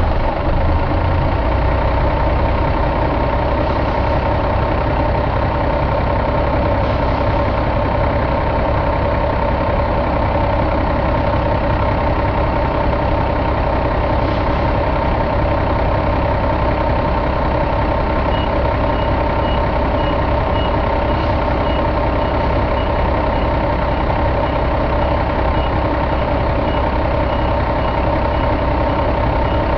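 2005 Cummins ISX inline-six diesel engine idling steadily just after starting. From about two-thirds of the way in, a faint high beeping repeats about twice a second.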